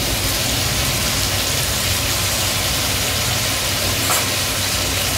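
Eggplant and potato pieces sizzling in an open kadai on a gas stove: a steady hiss over a steady low rumble, with a light knock about four seconds in.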